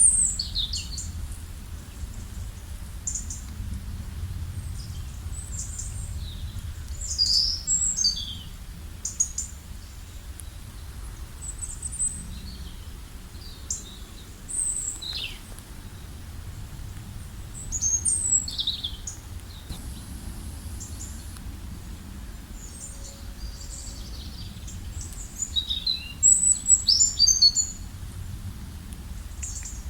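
Forest songbirds singing and calling in short high-pitched chirps and trills, scattered through and busiest near the end, over a steady low background rumble.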